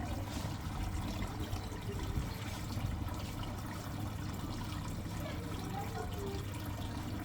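Samsung ecobubble washing machine running, with water moving in the drum over a steady low motor hum.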